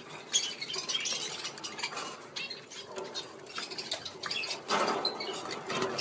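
Pet budgerigars chattering in a dense run of quick, high chirps and clicks, with a louder brief rustle about five seconds in.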